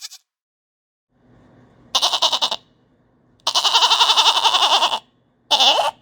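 Goat bleating in three wavering calls: a short one about two seconds in, a long one lasting about a second and a half, and another short one near the end.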